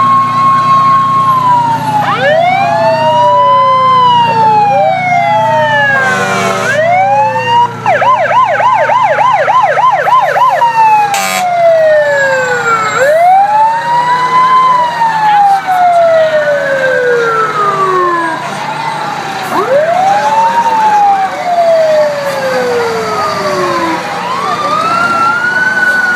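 Emergency vehicle sirens wailing, several overlapping: each wail rises quickly and falls slowly, with a fast yelp for a couple of seconds about a third of the way in and a short horn blast just before it. A vehicle engine hums low underneath.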